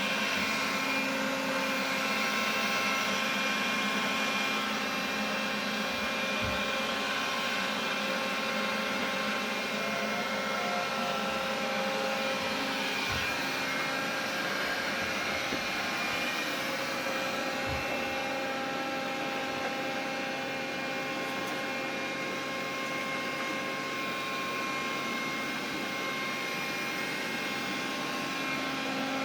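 Xiaomi vacuum cleaner running steadily: a motor rush with several held whining tones over it and a few faint low thuds. This is the extraneous noise the owner is trying to trace.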